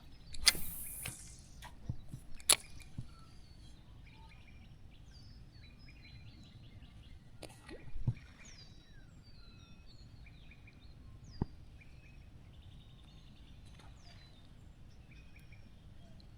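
Small birds chirping repeatedly, short falling calls scattered throughout. A brief whoosh comes about half a second in, and a few sharp clicks come later.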